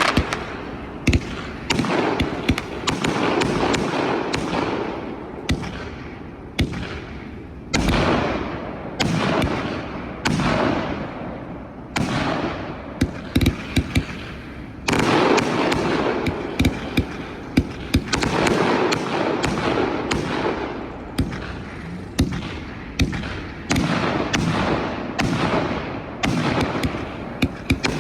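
A 56-shot consumer firework cake firing, with sharp reports about once a second. Each report trails off, and there is crackling between the shots.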